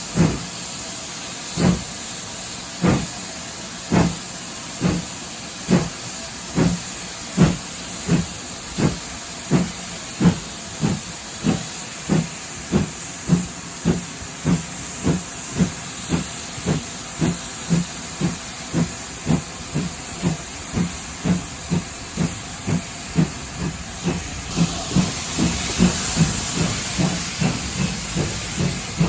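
Steam locomotive pulling away, its exhaust chuffs quickening steadily from about one a second to about three a second as it gathers speed, over a continuous steam hiss that grows louder near the end.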